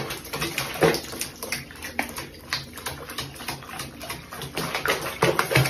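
Bathwater splashing and dripping in a small basin of foam around a bathing cat, in short irregular splashes.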